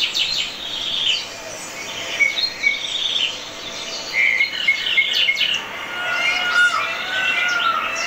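Mixed birdsong played through a TV speaker: quick series of high chirps and trills through the first half, then warbling whistled phrases about six seconds in.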